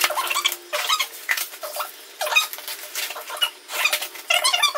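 Brown packing tape being ripped off a cardboard box in a string of short, squeaky tearing rasps, with the cardboard and a plastic sheet rustling under the hands.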